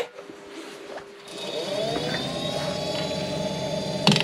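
Wood lathe switched on with a click, its motor spinning up with a rising whine, then running steadily.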